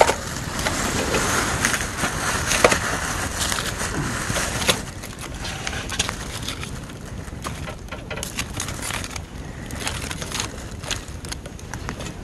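Campfire wood crackling and crunching, with many sharp snaps, busiest in the first few seconds and sparser after.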